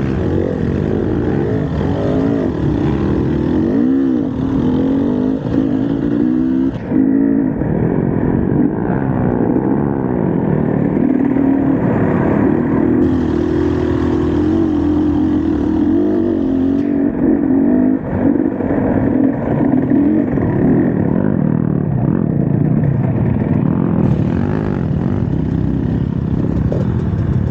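Enduro dirt bike engine running as the bike is ridden, its revs rising and falling over and over.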